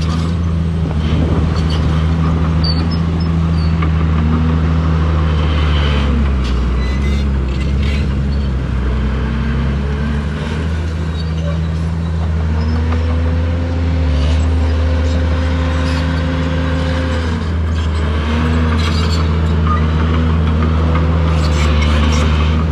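Heavy diesel engine of earthmoving machinery running steadily. About halfway through it revs up, holds the higher pitch for several seconds and drops back, then briefly revs again near the end, with faint clanks over it.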